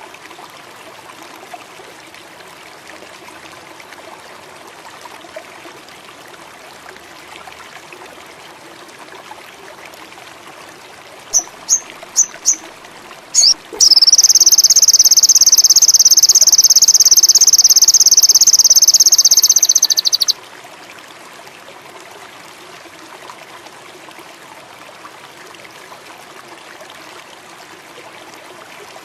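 Sogon indigo bird call over a steady stream-and-frog background: about eleven seconds in, four short high chirps and one more, then a loud, very rapid high trill for about six seconds that cuts off suddenly.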